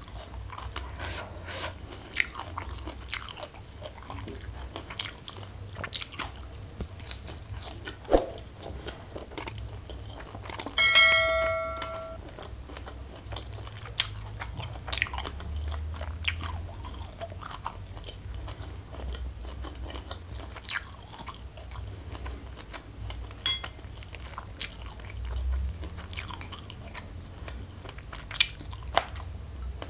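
Close-miked chewing and crunching of hand-eaten mouthfuls of rice, fried salted fish and raw greens, with many small crisp clicks. About 11 seconds in, a brief bell-like ring of several clear tones sounds for about a second.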